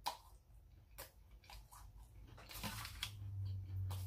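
A person eating close to the microphone: soft wet chewing with mouth clicks and smacks. A faint low hum comes in during the second half.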